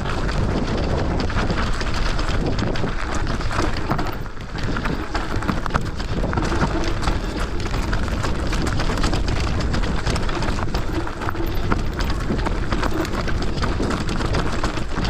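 Bike riding fast down a rough trail: tyres crunching over stones and roots, with a constant clatter and rattle from the bike and a low rumble of wind on the microphone.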